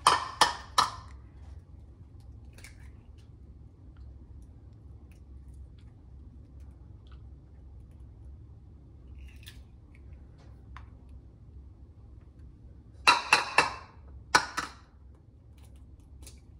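Eggshells being tapped against the rim of a porcelain bowl to crack them: three quick sharp taps at the start and another burst of taps near the end, with a few faint shell clicks between as the yolks are separated from the whites.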